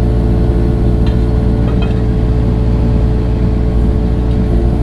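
Engine of a piece of earthmoving equipment running steadily at constant speed, with a few faint knocks about one and two seconds in.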